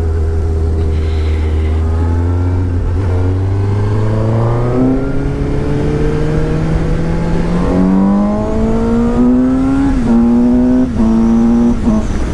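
2017 Suzuki GSX-S750's inline-four engine accelerating, its revs climbing for several seconds, then a few short sharp breaks in the revs near the end, over the rush of riding wind.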